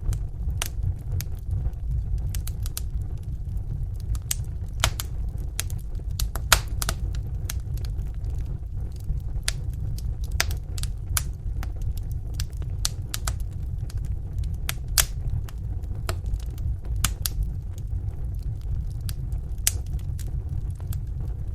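Wood fire burning in a fireplace: a steady low rumble of the flames with irregular sharp crackles and occasional louder pops.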